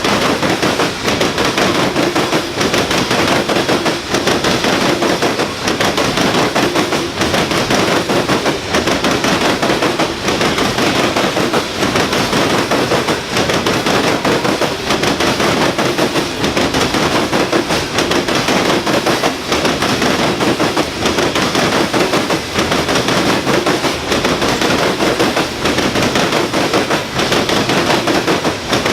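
Loaded coal cars of a freight train rolling past, their steel wheels making a loud, rapid, continuous clatter on the rails.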